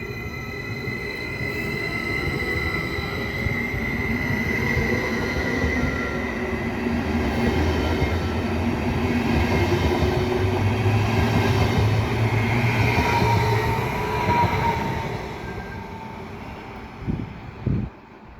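Stadler KISS double-deck electric multiple unit pulling away: its traction drive whines in several tones that shift slowly in pitch as it picks up speed, over building wheel and rail noise. The sound peaks and then fades as the train moves off, with two short thumps near the end.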